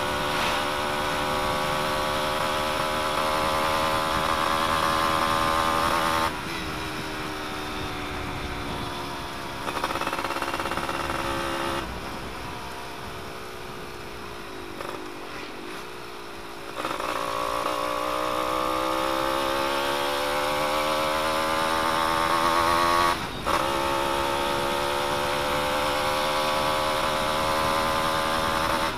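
Yamaha F1ZR's two-stroke single-cylinder engine running with its exhaust baffle removed, under way. The engine note climbs and falls: it drops about six seconds in, sinks low for a stretch in the middle, then climbs again with a short break near the end.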